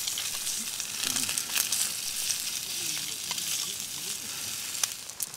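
Pre-cooked microwave rice frying in oil in a skillet on a camping gas stove: a steady sizzle with irregular crackles, as the rice is stirred with a utensil.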